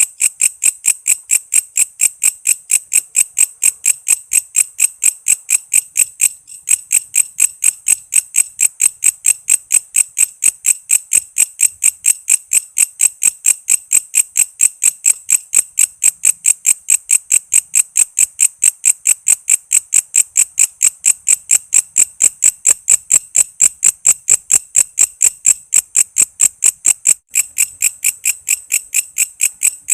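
Walang kece, an Indonesian singing katydid, calling in a fast, even train of shrill chirping pulses, about four or five a second. The pulses break off briefly about six seconds in and again near the end.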